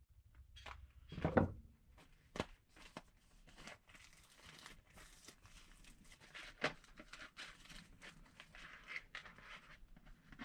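Plastic packaging of a carburetor rebuild kit rustling and crinkling as it is opened and handled, with scattered small clicks and one louder knock about a second in.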